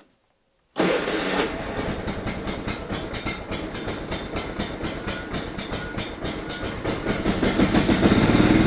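A John Deere LT155 lawn tractor's engine being cold-started at 45°F: it is cranked with a rapid, even chugging beat, then catches and runs, growing louder near the end.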